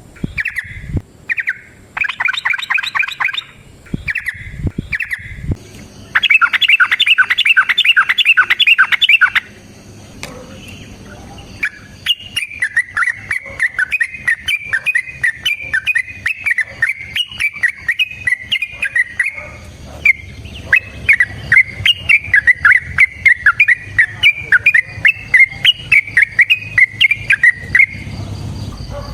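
Yellow-vented bulbul (trucukan) song: loud chattering bursts for the first several seconds, then after a short pause a long unbroken run of rapid notes, the 'long ropel' song.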